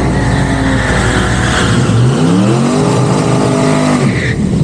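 Car engine accelerating hard: it runs steadily, then climbs quickly in pitch from about two seconds in and holds high before cutting off abruptly just after four seconds.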